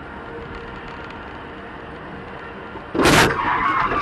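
Steady vehicle engine and road noise inside a cab, then about three seconds in a sudden loud crash as the vehicle is clipped, which tears off its side mirror, followed by a second or so of noisy rattling and scraping.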